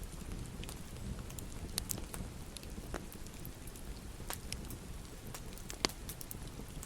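Wood fire in a fireplace crackling: scattered sharp pops over a low steady rumble, with one louder pop near the end.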